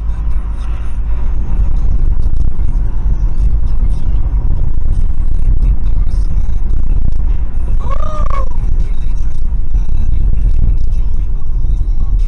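Loud, steady low rumble of a car driving, with a short tone that rises and falls about eight seconds in.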